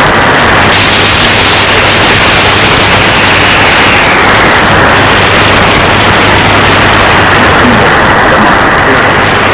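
Loud shortwave receiver static and impulse interference from an SDRplay RSP1 software-defined radio, with no intelligible signal over it. The hiss turns suddenly brighter just under a second in and dulls again a second later, as the receive bandwidth is changed.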